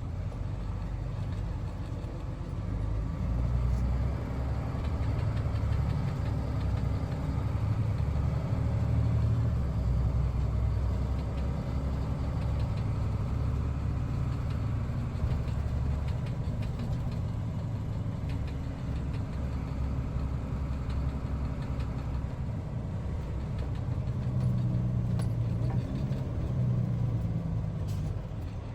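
Cargo van engine and road noise heard from inside the cab while driving: a steady low rumble that swells and eases now and then.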